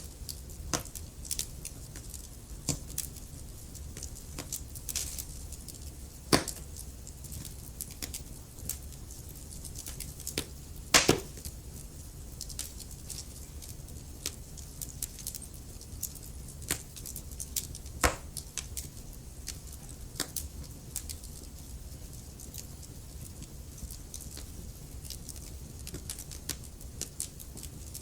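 Wood fire in a fireplace crackling: irregular sharp pops and snaps over a low steady rumble, with a few louder pops, the loudest about eleven seconds in.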